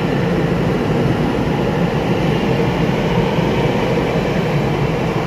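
A Taiwan Railway Tze-Chiang express electric multiple unit running at speed through an underground station platform, a steady, even rumble of wheels on rail.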